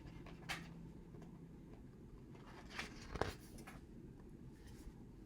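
Faint rustles and a soft click from a picture book's paper pages being handled and turned, over quiet room tone.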